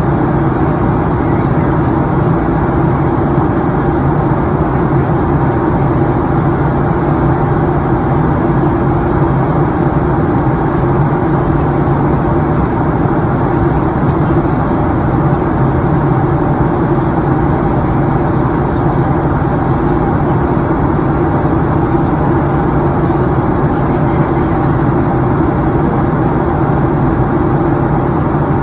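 Steady in-flight cabin noise of a Boeing 737-900ER: airflow rush and the drone of its CFM56-7B turbofans, with a low, even hum and no change in level.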